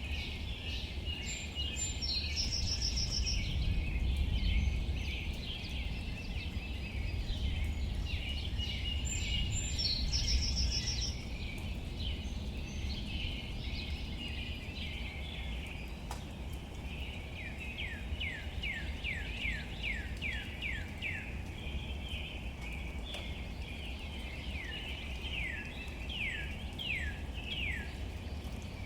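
Several birds calling over a steady low outdoor rumble: a dense chatter of chirps, a short high trill twice in the first half, and in the second half a run of quick downward-sliding whistled notes, repeated near the end.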